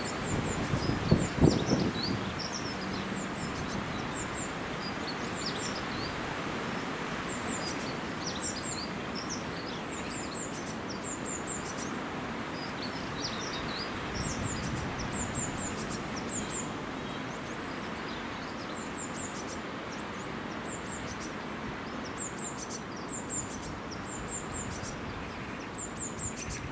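Small birds chirping: short, high calls, often in quick pairs, repeating throughout over a steady background of outdoor noise. A brief low rumble about a second in.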